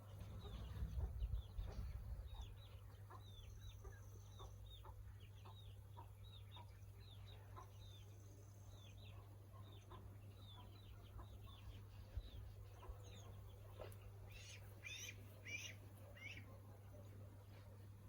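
A bird giving short, high, down-slurred peeps over and over, a couple a second, with a louder burst of calls near the end. A low rumble comes in the first two seconds.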